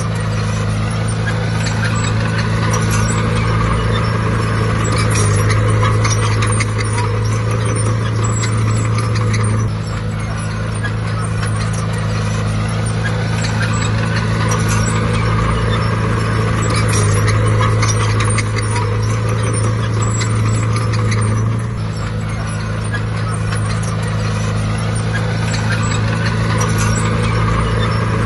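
Heavy diesel engine of earthmoving machinery running hard and steadily, its note easing off briefly about ten seconds in and again a little past twenty seconds as the load changes.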